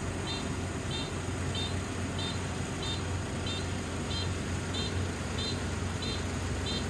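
Combine harvester engine running steadily under load, a low even drone. Over it a short high chirp repeats about every two-thirds of a second.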